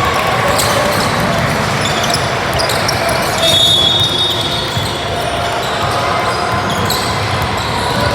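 Youth basketball game in a gym: the ball bouncing on the hardwood with scattered voices in the hall, and a short referee's whistle blast about three and a half seconds in.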